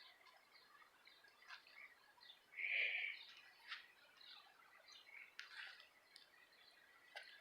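Faint scattered bird chirps, with one louder call a little under three seconds in.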